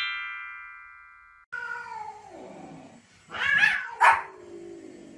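A bright chiming jingle rings out and fades over about a second and a half. Then a small white Pomeranian barks sharply twice, about three and a half and four seconds in, with long falling cries before and after the barks.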